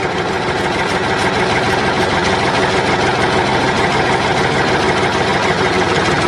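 Engine idling steadily with a fast, even chug, starting and stopping abruptly like an edited-in tractor engine sound.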